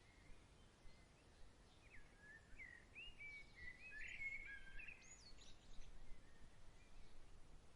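Faint songbird chirps, a run of short rising and falling notes in the middle, a few higher ones just after, over a quiet steady background of breeze.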